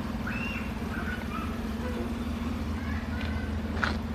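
Vehicle engine idling with a steady low hum, with a few faint short chirps in the first two seconds.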